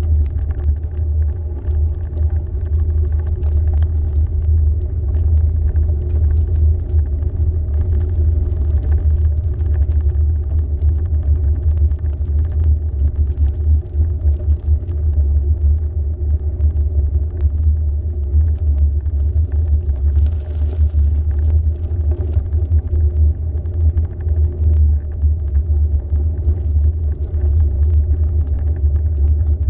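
Wind buffeting the microphone during a bike ride: a steady, loud low rumble that wavers rapidly in level.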